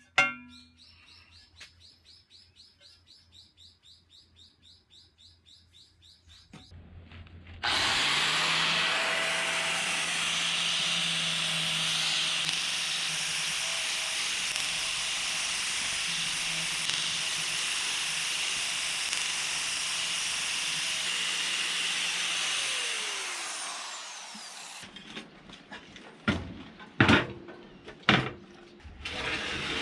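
Power tool cutting a 4.5 mm steel plate: a steady motor hum under a harsh hiss for about fifteen seconds, then the motor winds down. A few sharp metallic knocks follow near the end.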